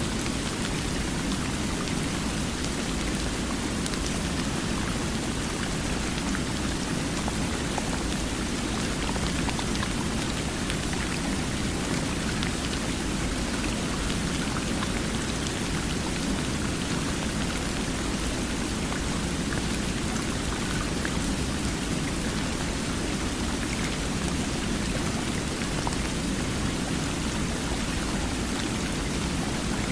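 Water flowing steadily, an even rushing hiss with scattered small splashing ticks and no change throughout.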